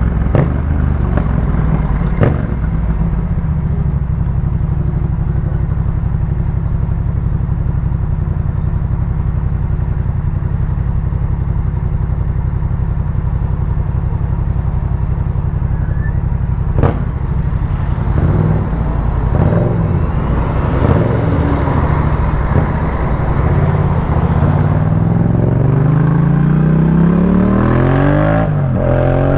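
2018 Yamaha MT-07's 689 cc parallel-twin engine through a Jeskap K4 full exhaust, idling steadily for more than half the time, with a couple of sharp clicks. After that the revs rise and fall, and the bike pulls away with climbing revs in the last few seconds.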